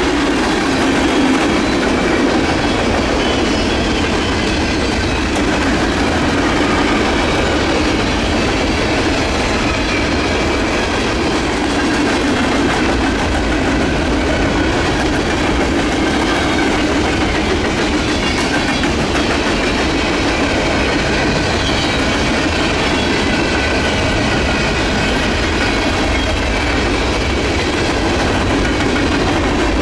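A freight train's cars rolling past, their steel wheels running steadily on the rails at an even, loud level.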